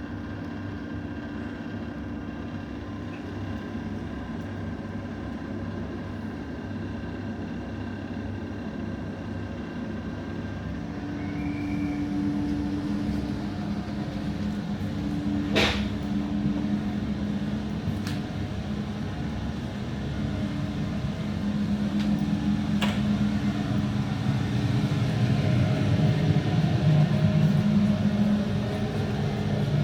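Electric regional train running on the rails, heard from inside the carriage: a steady low rumble with a motor hum that grows louder about halfway through. A few sharp clicks stand out over the rumble.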